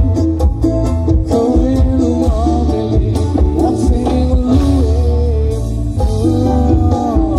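Loud live dangdut koplo band music: heavy bass and regular drum strokes under a bending melody line.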